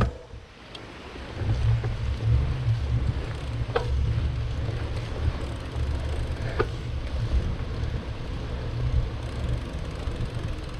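Wind buffeting the microphone of a moving bicycle, an uneven low rumble that starts about a second and a half in. A knock at the very start and a few faint clicks.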